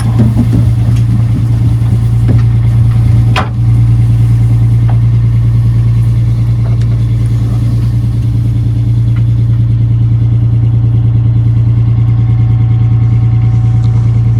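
Boat engine running steadily at a constant speed, loud and close, with a brief dip and a sharp click about three and a half seconds in.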